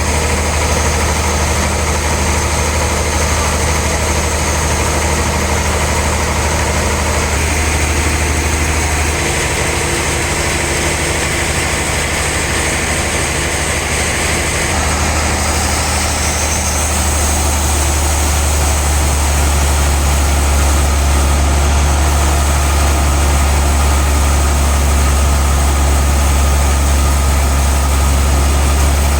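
Sawmill machinery running with a steady, engine-like low hum. The low hum weakens about nine seconds in, then comes back stronger around fifteen seconds and grows a little louder.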